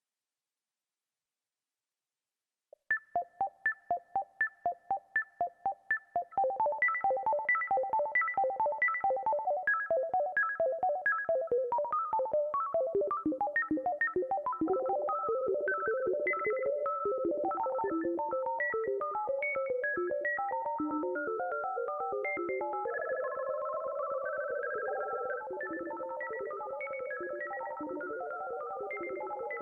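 Electronic music: synthesized short, bell-like notes start about three seconds in, repeating about four a second, then thicken into a dense, layered stream of notes, with held tones joining near the end.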